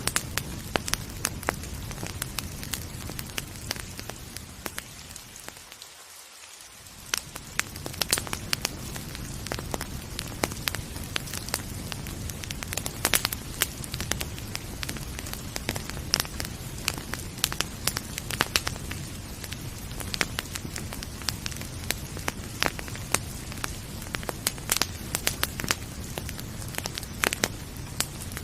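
Wood fire crackling with frequent sharp pops over a steady hiss of rain. The whole sound dips down for a moment about six seconds in, then returns.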